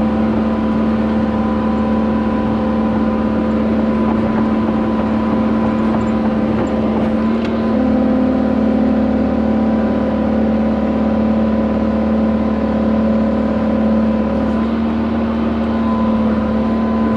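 Engine of the machine pulling a water line plow, running steadily under load with a constant drone. Its pitch rises slightly about eight seconds in and settles back a few seconds later.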